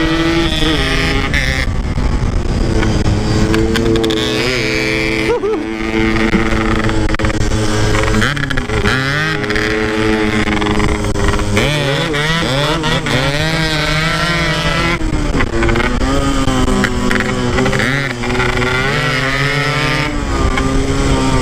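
Motorcycle engine being ridden over rough ground, revving up and down every second or two as the throttle and clutch are worked, over a steady low rumble.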